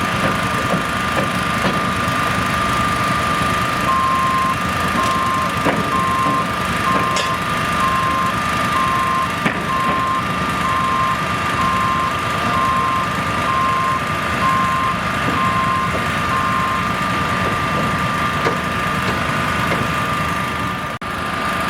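Heavy construction vehicle running, its reversing alarm beeping about once a second for some thirteen seconds, starting about four seconds in, over a steady engine and machine noise with a constant high whine.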